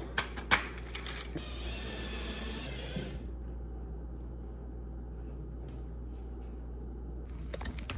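A few sharp clicks, then a drill runs at a steady whine for about two seconds, driving a screw into the ceiling.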